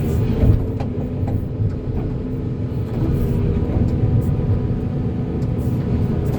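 Volvo excavator's diesel engine running steadily, with one low thud about half a second in and a few light knocks.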